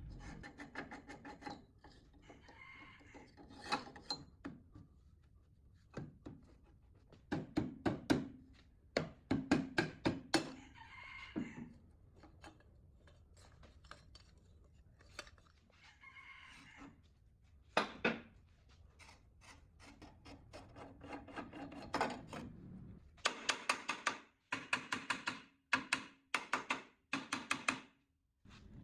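Hand tools knocking, clinking and scraping on the metal parts of a rusted Hitachi three-piston air compressor head, in irregular bursts of sharp strikes, with quick runs of clinks near the end.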